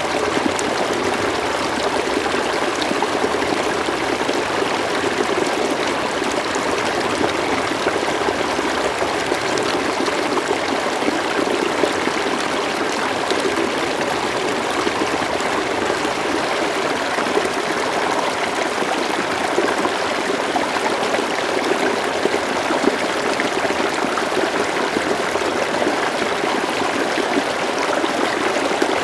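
River water flowing and babbling steadily over stones, an even rushing sound with fine trickling detail.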